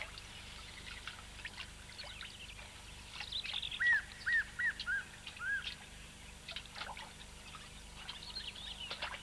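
Birds calling, including a run of five short arched whistled calls a few seconds in, over light splashing and trickling water.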